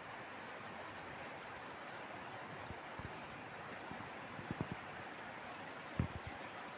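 Steady rushing outdoor noise, with a few short low thumps about four and a half seconds in and a stronger one at about six seconds.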